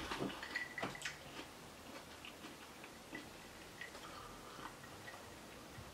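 Faint chewing of a mouthful of food, with a few small, sharp mouth clicks in the first second and scattered soft ticks after. About four seconds in comes a sip from a glass of iced drink.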